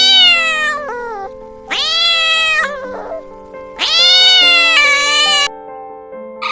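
Cat meowing: three long, drawn-out meows, each rising then falling in pitch, over background music of held notes.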